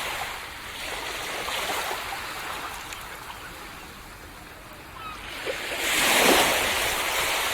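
Ocean waves washing onto a sandy beach. One wash recedes and fades over the first few seconds, then a new wave breaks and surges loudest about six seconds in.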